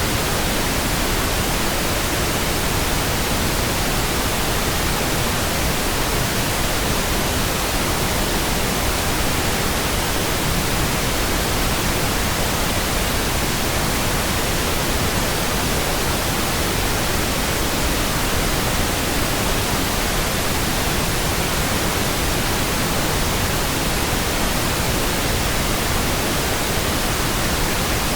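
Synthetic pink noise: a steady, even hiss across all pitches, unchanging.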